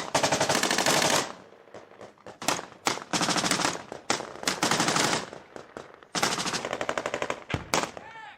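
Automatic gunfire in a firefight: several long bursts of rapid shots, each lasting about a second, with short pauses between them.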